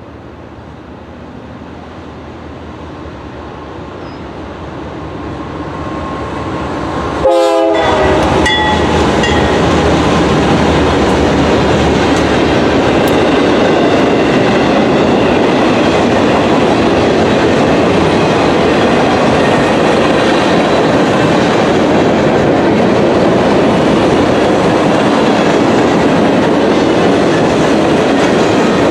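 Diesel-hauled freight train approaching and growing steadily louder for about seven seconds, then passing close by, loud and steady, with the rumble and clickety-clack of the freight cars' wheels on the rails.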